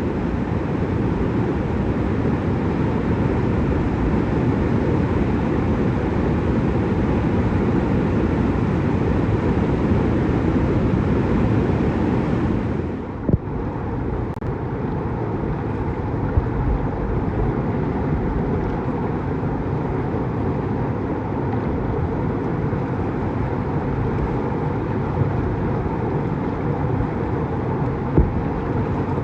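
Rushing whitewater of a creek, a loud, steady roar heavy in the low end, with a few brief knocks.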